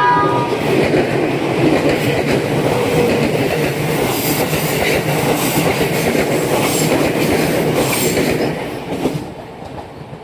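Train running on the track, wheels clattering over rail joints, with a steady rumble. The sound fades out near the end.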